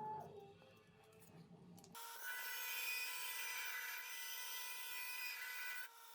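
A power tool cutting or grinding metal: after a couple of seconds of faint handling sounds it starts abruptly with a steady whine and a loud hiss, dipping briefly near the end.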